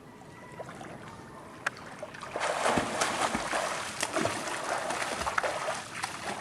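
Water splashing and sloshing, starting suddenly about two and a half seconds in and going on busily with many small slaps and drips.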